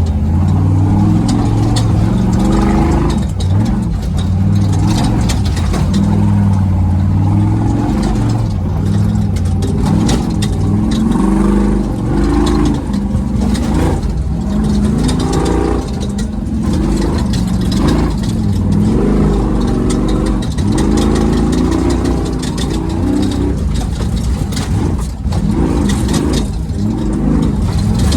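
Off-road race truck's engine, heard from inside the cab, revving hard, its pitch rising and falling over and over as the truck is driven fast, with frequent knocks and rattles from the truck over rough ground.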